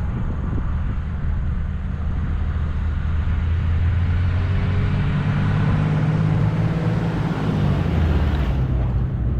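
A motor vehicle's engine running steadily with road noise, its engine note shifting about eight seconds in.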